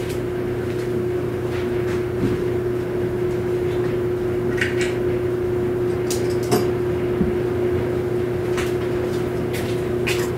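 A steady background hum with a clear steady tone, over which a dozen or so short clicks and knocks of small objects being handled come at irregular moments, several close together near the end.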